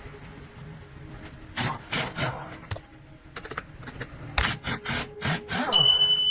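Rough scraping strokes in two bursts, the second longer and denser, followed near the end by a short high steady tone.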